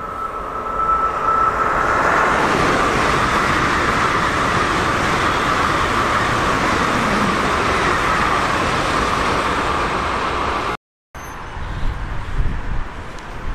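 Train passing at speed: a loud steady rush with a high whine that sinks slightly in pitch as it goes by. The sound cuts off abruptly about eleven seconds in, leaving a quieter low rumble with gusts of wind on the microphone.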